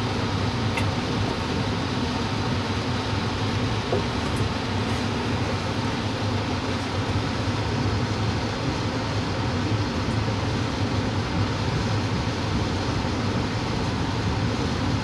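Steady rumble and rolling noise of trains in motion, heard from inside a passenger train's dome car as a long freight train of tank cars and covered hoppers passes alongside.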